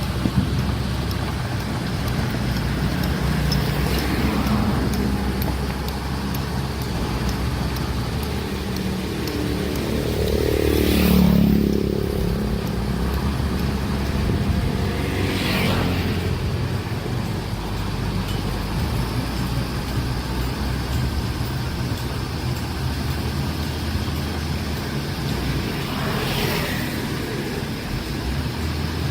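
Steady low rumble of heavy diesel engines running, with vehicles passing close by about four times; the loudest pass comes about eleven seconds in.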